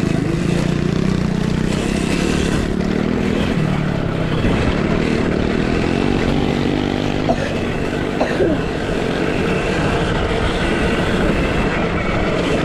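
Dirt bike engines revving up and down over a steady rush of noise, with a couple of brief sharp sounds partway through.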